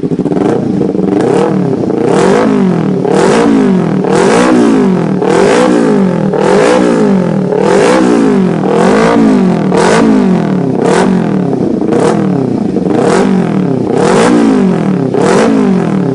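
Kawasaki Ninja 250 with a CX aftermarket racing exhaust, revved over and over: the throttle is blipped up and let fall about once a second, with a sharp bark at the top of each rev.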